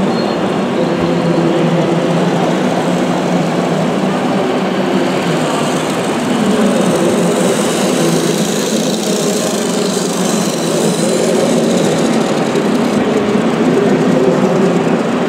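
Radio-controlled scale construction machines running, a steady engine-like hum with shifting pitch that keeps going without a break.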